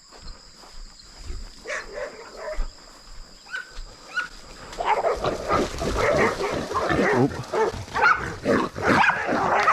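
Hunting dogs barking and a feral pig squealing as the dogs bail the pig, sparse at first, then a loud, dense commotion from about five seconds in.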